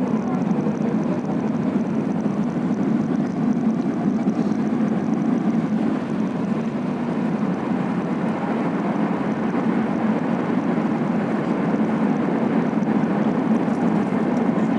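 Steady low drone of engine and airflow noise inside the cabin of an Airbus A380-800 in flight on approach.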